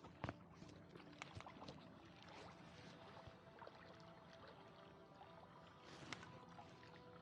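Quiet ambience aboard a fishing kayak on calm water: scattered small knocks and ticks against a faint background hiss, with one sharper knock just after the start.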